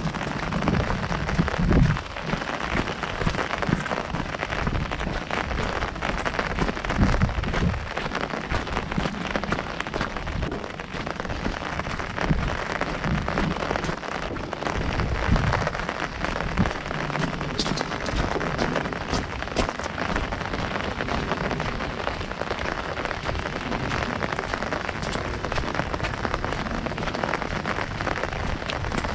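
Heavy rain falling on an umbrella held overhead: a dense, steady spatter of many small drop strikes.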